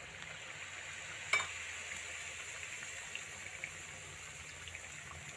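Malpua batter deep-frying in hot oil, a steady sizzle as a fresh ladleful goes in. A single sharp click sounds about a second in.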